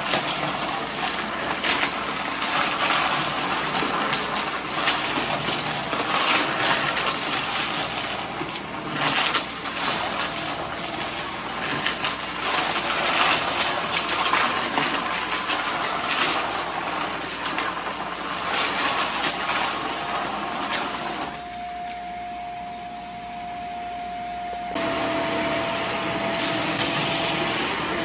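Vacuum cleaner running over a messy mess test, its steady airflow laced with crackling as loose debris is sucked up. About 21 seconds in it drops quieter, leaving a steady motor whine, then comes back louder with a slightly lower whine near the end.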